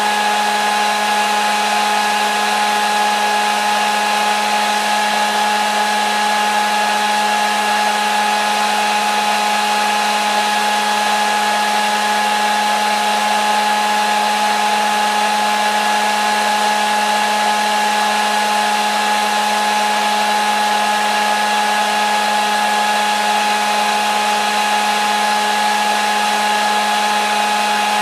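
Hair dryer running steadily at one speed: a constant rush of blown air over a steady motor hum, with no change in pitch or level.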